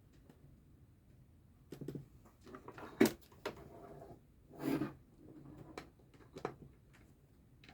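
Quiet handling sounds from cross-stitching: soft rustling with a few clicks, the sharpest about three seconds in, and a short swell of noise a little later.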